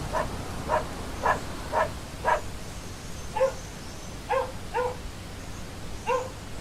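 A dog barking: about nine short barks, five in quick succession, then four more spaced out.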